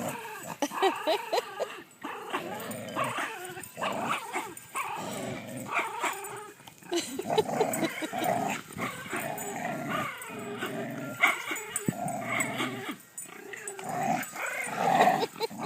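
Dogs growling steadily in play while tugging on a stuffed toy, with an occasional yip or whine.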